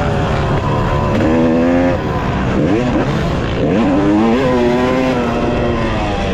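Dirt bike engine on a motocross track, revving hard. It backs off twice, a little past two and near four seconds in, and each time climbs steeply again as the throttle is reopened, under a steady low rumble of wind.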